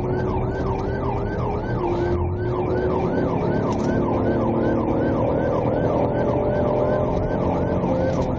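Police car siren in yelp mode, a rapid rising-and-falling wail repeating about three times a second, over steady engine and road noise during a high-speed pursuit.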